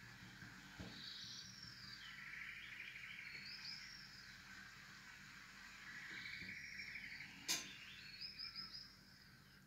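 A small bird singing faintly: a few high whistled, arching chirps and two quick trills. A single sharp tap about three-quarters of the way through.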